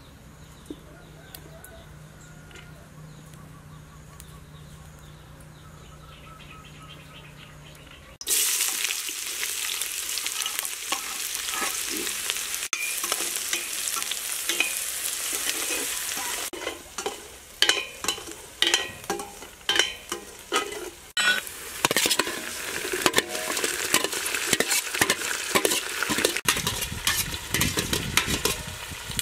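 Sliced red onion and chopped garlic frying in hot oil in a stainless steel pot. A loud sizzle starts suddenly about eight seconds in. From about halfway on, a metal ladle scrapes and stirs the pot at roughly two strokes a second.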